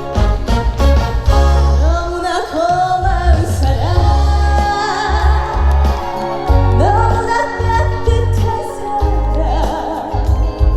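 Trot song performed live: a woman singing over a loud backing track with a heavy, pulsing bass beat. The voice comes in about two seconds in, after a brief instrumental passage.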